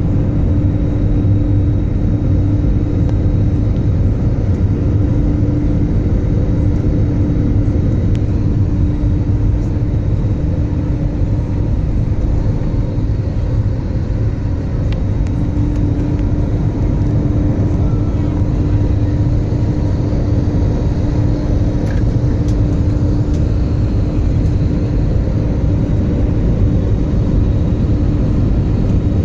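Jet airliner cabin noise: engines and airflow heard from inside the cabin as a constant low rumble with a steady hum.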